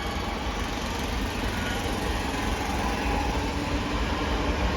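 A Class 323 electric multiple unit moving past along the platform: a steady rumble of wheels on rail, with a faint steady whine.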